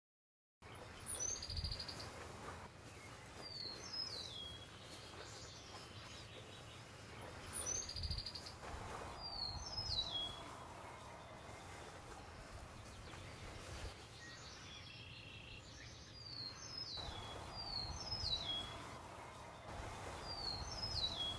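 Outdoor ambience with a songbird repeating a short phrase of quick, high, downslurred chirps every few seconds.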